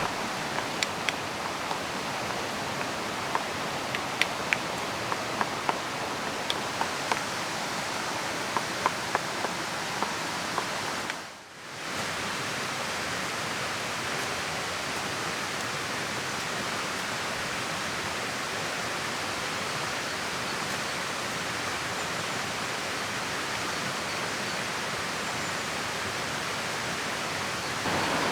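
Steady rushing of a flowing river mixed with falling rain, with scattered sharp ticks over the first ten seconds. The sound fades out briefly and comes back about eleven seconds in.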